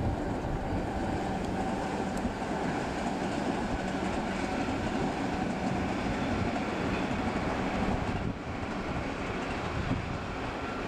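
Electric passenger train running along the tracks, a steady train noise of wheels on rail.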